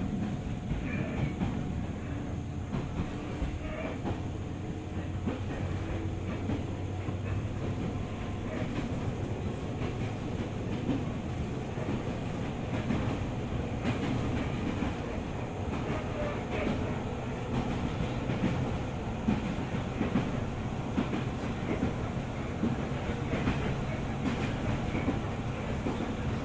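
A JR 205 series 600 subseries electric commuter train running steadily on the rails, heard from inside a passenger car: a continuous low rumble of wheels and running gear, with scattered light clicks from rail joints.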